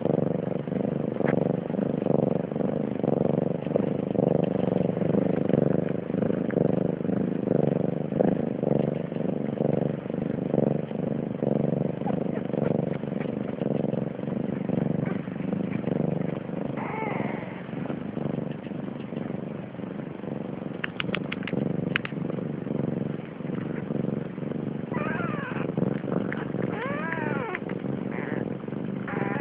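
Domestic cat meowing: a single call about halfway through, then a run of several calls near the end, over a steady low rumble.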